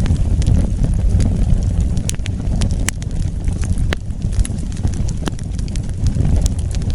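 Wood fire burning: irregular sharp crackles and pops, a few a second, over a steady low rumble of the flames.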